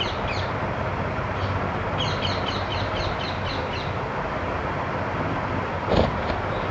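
Small birds chirping in a quick run of high notes over a steady outdoor hiss, with one short, louder sound about six seconds in.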